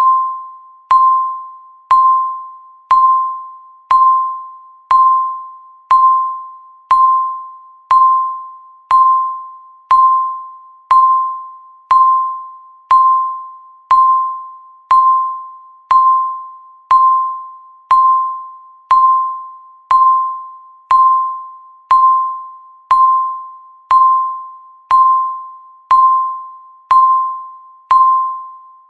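Countdown timer's tick: a sharp electronic ding, one each second, each dying away before the next.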